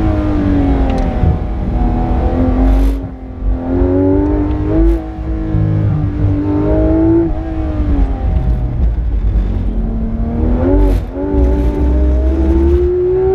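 Porsche 991.2 GT3 RS's naturally aspirated flat-six at full load, its pitch climbing and then breaking sharply at each gear change, several times over.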